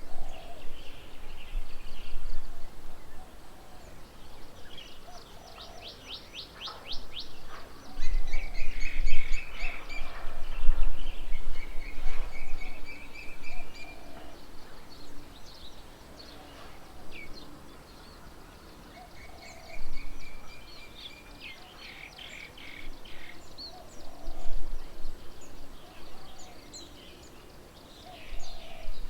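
Several birds calling together: fast chirping trills, drawn-out whistled notes and scattered chirps, over a lower call repeated every couple of seconds.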